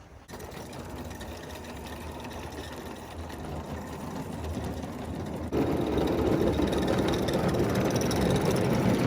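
Small Mamod live-steam locomotive running, a steady hiss and rush of steam and moving train that builds gradually, then jumps suddenly louder about halfway through.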